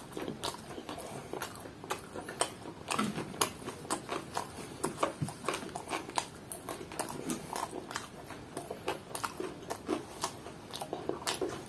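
A person chewing fried chicken, with many irregular small clicks and smacks from the mouth.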